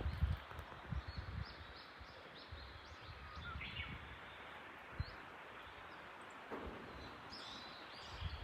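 Steady rush of a mountain stream, with small birds chirping now and then above it. A few low thuds in the first second or so.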